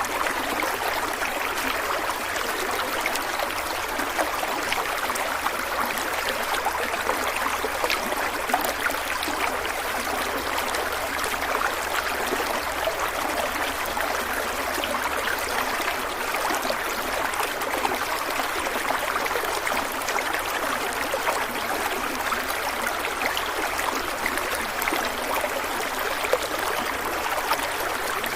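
Stream water running and trickling steadily over rocks, an even rushing splash with fine bubbling detail.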